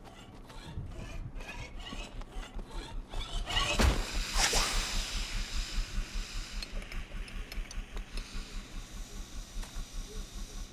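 Film sound effects: light clicking that builds to a loud hissing whoosh about four seconds in, then a steady rhythmic pulsing of about three to four beats a second under a faint hiss.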